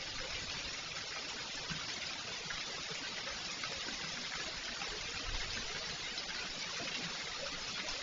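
Rain falling steadily, an even hiss of water with no break.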